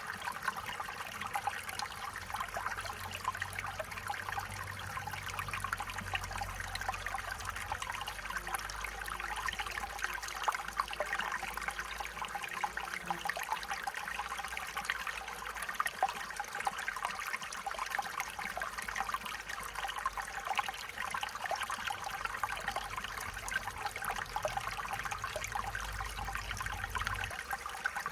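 Stream water flowing steadily, a continuous babbling trickle with many small splashes.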